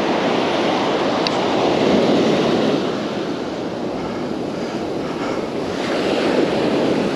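Gulf surf breaking and washing up the beach, with wind buffeting the microphone. The wash swells louder about two seconds in and again near the end.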